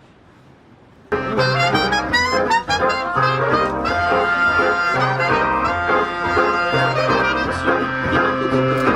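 Brass band music with trumpet and trombone over a pulsing bass line, cutting in abruptly about a second in after a brief quiet lull.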